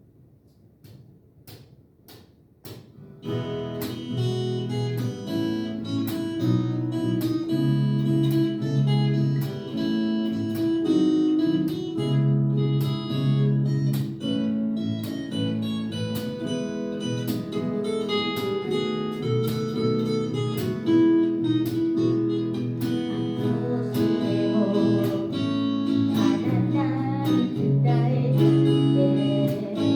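Acoustic guitar music starting up: a few scattered soft notes, then full guitar playing that begins about three seconds in and carries on steadily as a song's opening.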